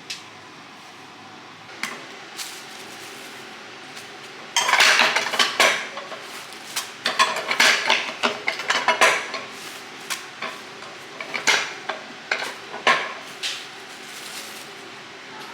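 Pots, pans and cooking utensils clattering and scraping, with a dense run of knocks starting about a third of the way in and thinning to scattered clinks near the end, over a steady background hum.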